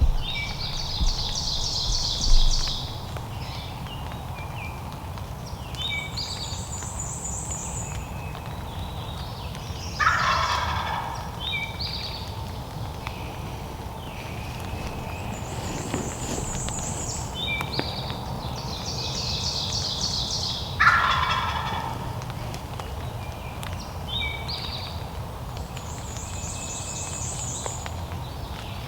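Wild turkey tom gobbling twice, about eleven seconds apart: each gobble is a rapid rattle that falls in pitch. Small songbirds sing a repeated high phrase in between.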